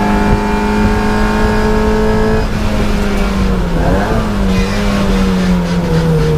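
Race car's engine heard from inside the cabin, running at steady high revs at speed, then lifting off about two and a half seconds in as the car brakes hard. A brief blip of revs comes about four seconds in, and the engine note drops lower near the end as the car slows.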